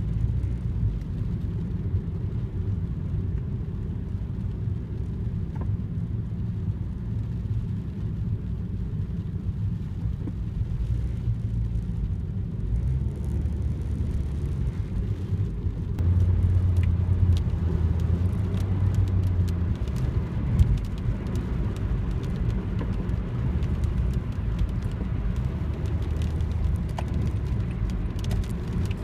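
Steady low rumble of a car, louder for a few seconds about halfway through, with faint scattered ticks of raindrops that come more often in the second half.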